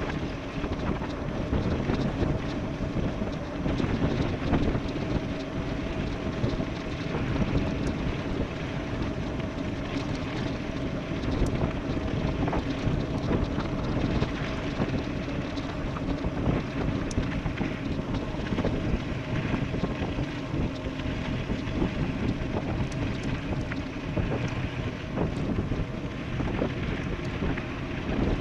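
Wind rushing over the microphone of an e-bike riding fast downhill, with a steady low hum underneath.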